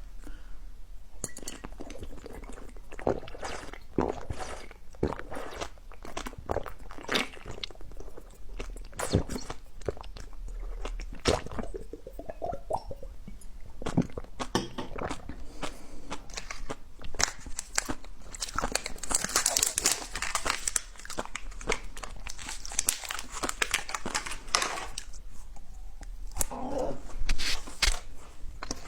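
Close-up crunching and chewing of crisp food: irregular bites and crackles, denser for a few seconds in the second half.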